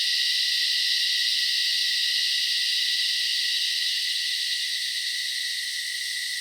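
A chorus of cicadas buzzing, a dense, steady, high-pitched drone that eases slightly toward the end.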